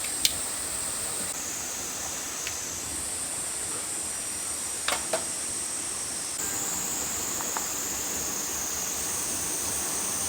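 Steady high-pitched drone of summer insects calling in the forest, shifting in pitch a few times. A few faint clicks sound over it.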